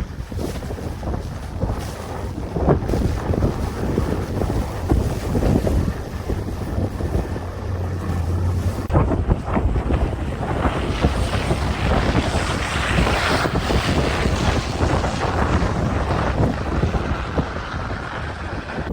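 Blizzard wind gusting hard against the microphone, a dense rushing hiss with deep buffeting rumble. The hiss gets brighter and higher about ten seconds in.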